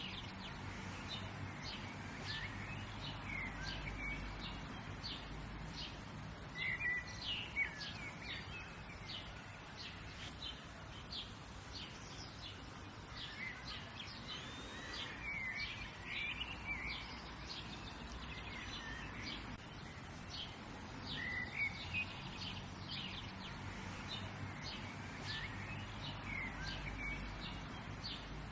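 Several birds chirping and calling in quick, short notes throughout, over a steady low background rumble.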